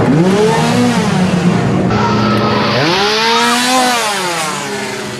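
A small engine revved up and down twice, its pitch rising and then falling each time, with a noisy wash underneath.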